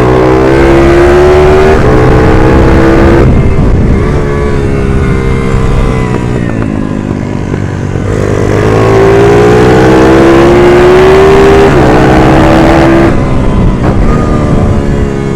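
140cc minibike engine at full throttle, its pitch climbing and stepping down at an upshift, then shutting off about three seconds in. It pulls hard again from about eight seconds, shifts up once more and backs off about thirteen seconds in.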